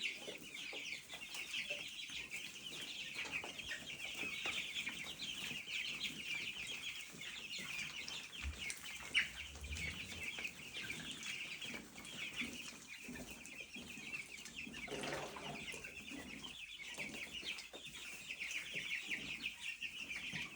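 A flock of chickens calling all at once in a constant dense chatter. A single sharp tap sounds about nine seconds in.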